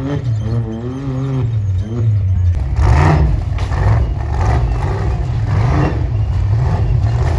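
Off-road vehicle engine running loud. For the first two seconds it holds a pitch that dips and rises, then it is revved in repeated surges.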